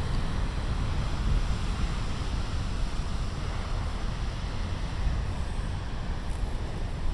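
Big storm waves breaking on a rocky shore in a steady roar, with strong wind buffeting the microphone as a deep rumble.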